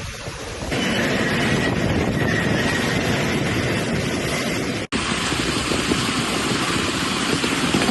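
Steady roar of storm wind and rain, with a change in the noise about a second in and a brief dropout near the middle where the footage is cut.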